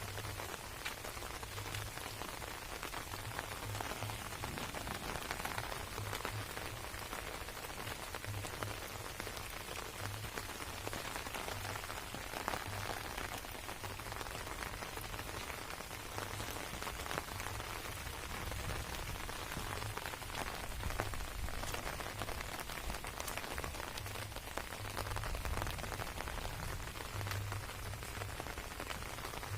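Steady rain falling on garden plants, a dense even patter of drops, with low bumps coming and going underneath.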